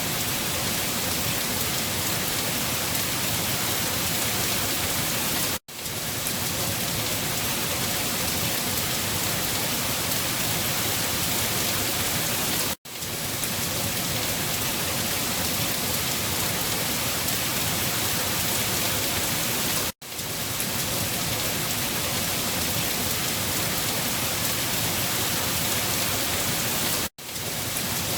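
Steady rain falling, an even hiss. The sound drops out for a split second and fades back in four times, about every seven seconds.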